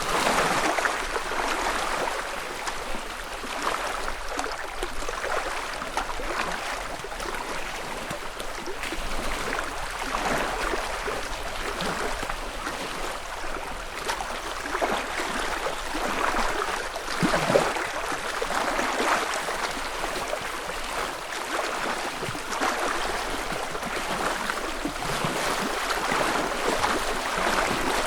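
Small ripples lapping against a lakeshore in soft, repeated swells, with one sharper little splash about two-thirds of the way through.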